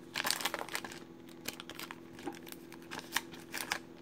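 Foil trading-card pack wrapper crinkling as it is torn open and handled, a dense flurry of crackles in the first second, then scattered crinkles.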